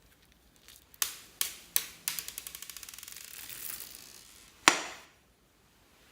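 Glossy slime being pressed and pulled by hand: a few sharp sticky pops, then a quick run of small crackling clicks, and one loud pop near the end.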